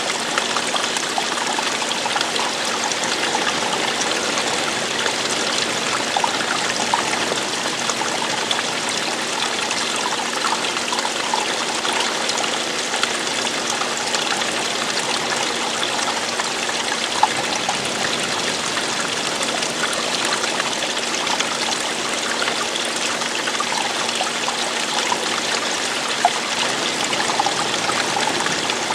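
Running water of a stream, splashing and trickling steadily, with many small bright splashes in the flow.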